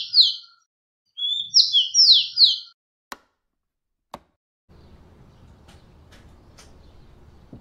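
A bird chirps a quick phrase of falling notes, heard once more in full, ending about two and a half seconds in. Then come two sharp clicks about a second apart, and a faint steady outdoor hiss follows.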